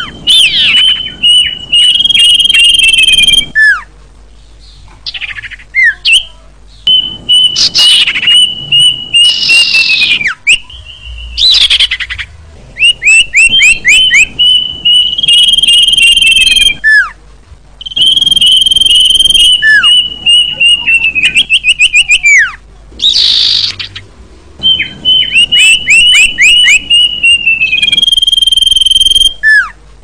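Sirpu and kedasi (a cuckoo) birds singing in turn. About five phrases, each a held high whistle that breaks into a fast run of falling notes, with short rising calls between them.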